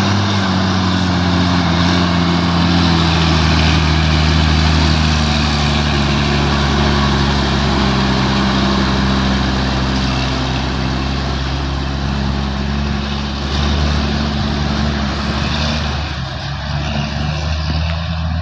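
Heavy diesel truck engine running under load at steady low revs as it climbs the grade. The drone eases off in the last couple of seconds.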